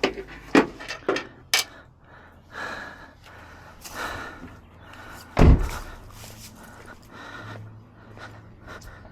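Clicks and knocks of tools and parts being handled, with one heavy thump about five and a half seconds in.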